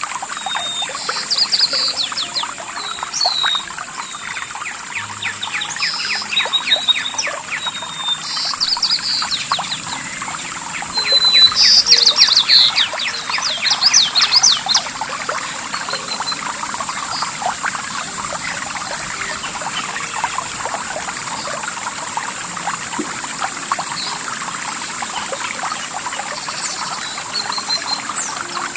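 Running water splashing and trickling steadily, with birds chirping over it, most busily in the first half.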